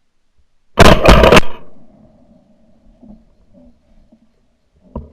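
A sudden, very loud, harsh burst of noise lasting under a second, with two or three quick peaks, about a second in, followed by faint low rumbling and a brief knock near the end.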